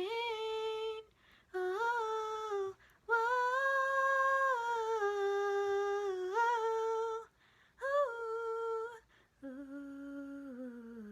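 An unaccompanied female voice singing long wordless held notes, with short breaks between phrases. Near the end it drops to lower, quieter humming.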